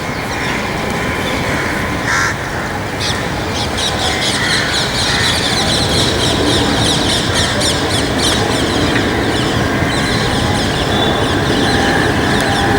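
Many birds chirping in rapid short high calls, thickening from about three seconds in, over a steady low roar.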